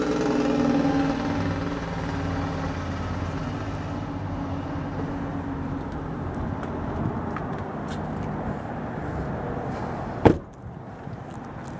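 Chevrolet Silverado 3500HD's 6-litre V8 idling steadily. About ten seconds in there is a single sharp thump, and the engine sounds quieter after it.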